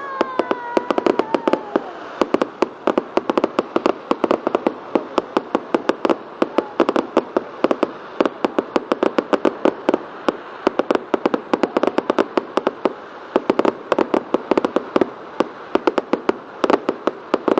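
Fireworks going off: a dense, irregular run of sharp cracks and pops, several a second, over a steady hiss.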